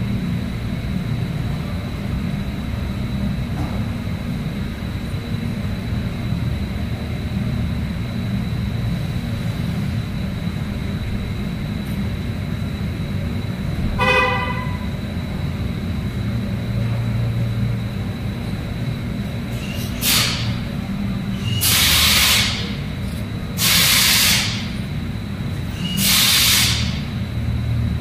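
Steady low engine-like rumble throughout. About halfway through a car horn gives one short toot. Near the end come four loud hissing blasts of about a second each.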